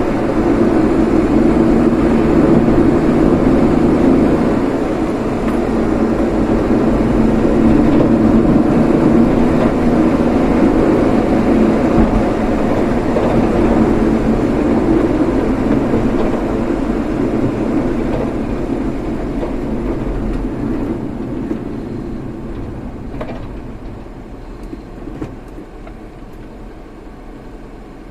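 Steady running noise of a car on the road, a loud low rumble that fades gradually over the last ten seconds.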